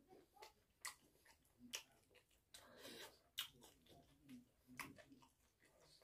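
Close-up mouth sounds of a person chewing: soft wet smacks and sharp lip clicks about once a second, with a short breathy hiss about three seconds in.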